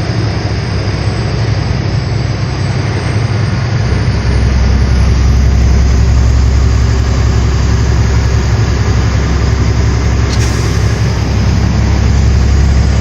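A car travelling at freeway speed, with steady road and engine rumble that grows louder about four seconds in.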